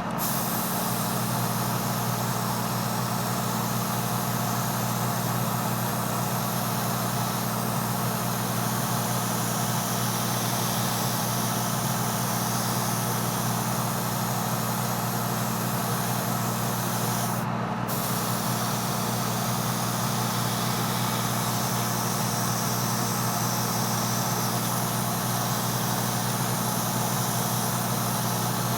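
Airbrush spraying paint in a steady hiss over a steady low machine hum. The hiss cuts out briefly about two-thirds of the way through, then resumes.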